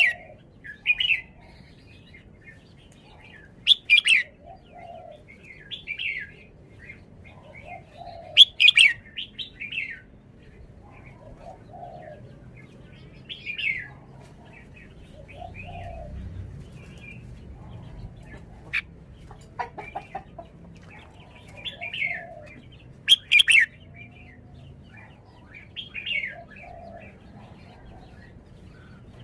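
Red-whiskered bulbul singing short, clear phrases every few seconds. The loudest come near the start, about four and eight seconds in, and again about twenty-three seconds in.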